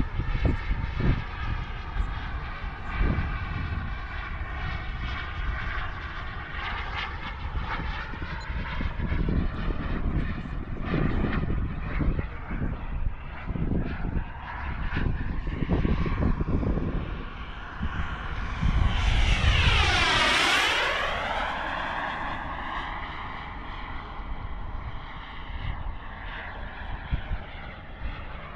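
Miniature jet turbine of a radio-controlled L-39 Albatross model jet whining steadily in flight, with wind gusting on the microphone. About two-thirds of the way in it swells to its loudest as the jet makes a fast low pass, its pitch sweeping sharply down and back up.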